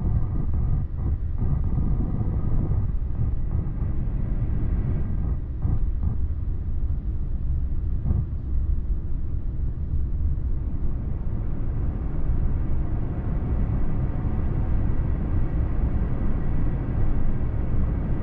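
Steady low rumble of an Airbus A350-900 heard inside the cabin, with no clear change in pitch or level.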